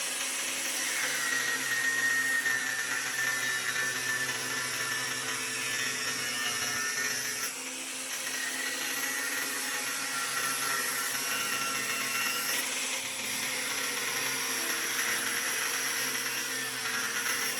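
A handheld power tool running steadily with a high whine, its pitch shifting slightly as it works. It starts suddenly at the very beginning.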